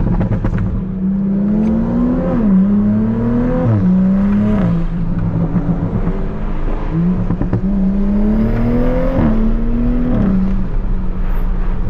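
Tuned Toyota Supra Mk5's turbocharged B58 inline-six accelerating hard through the gears: the engine note climbs and then drops sharply at each upshift, three shifts in quick succession, a lull, then another rising run with two more shifts.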